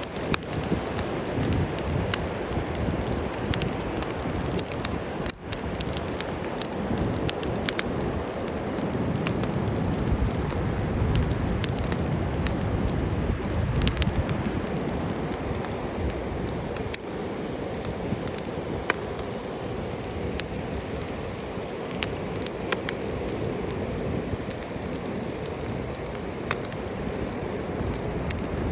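Wood bonfire burning: a steady dense rushing noise with frequent sharp crackles and pops.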